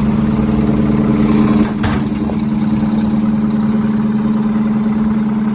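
A leaf vacuum truck's engine running steadily at idle with an even hum. A brief sharp noise comes about two seconds in, after which the deepest rumble eases a little.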